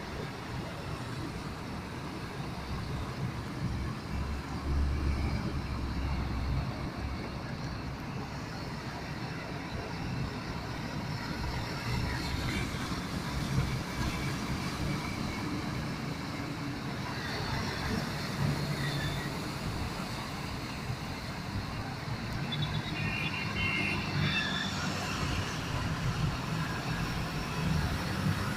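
Road traffic: vehicle engines running and cars passing in a steady rumble.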